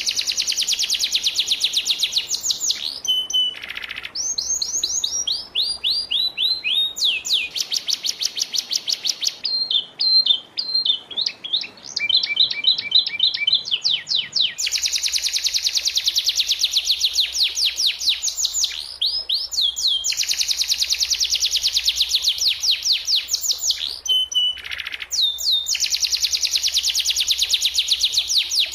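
Domestic canary singing continuously in long, fast trills of rapidly repeated high notes, switching between rolling phrases every few seconds.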